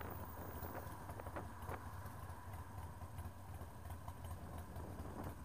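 Harley-Davidson Sportster 1200's V-twin engine running steadily at low road speed, heard from a camera mounted on the bike, with a few light knocks.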